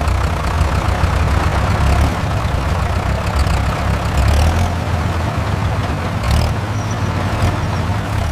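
Small tractor engine running steadily with a low rumble.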